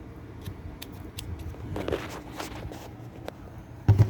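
Scattered light clicks and rustling from washing-machine parts being handled, with a louder knock near the end.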